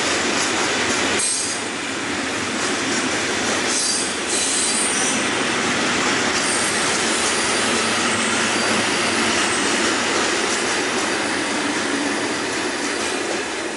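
Freight train of covered hopper wagons rolling past close by: a steady rush of wheel and rail noise with a couple of sharp knocks. It fades near the end as the last wagons go by.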